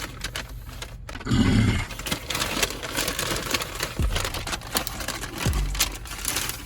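Paper fast-food bag rustling and crinkling as it is handled, with a couple of dull thumps about four and five and a half seconds in.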